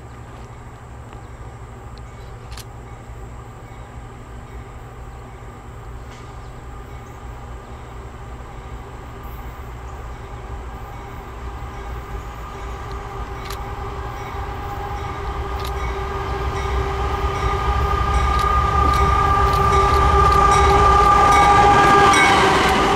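An approaching freight train led by GE diesel locomotives (AC4400CW and ES40DC), growing steadily louder, with a low rumble and a steady chord of tones. It is loudest just before the end.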